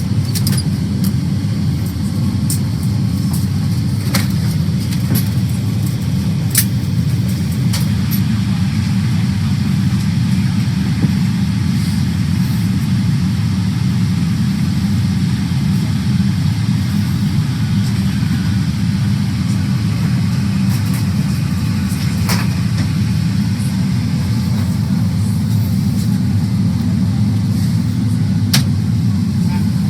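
Steady low rumble of a vehicle or aircraft interior, with a few faint clicks.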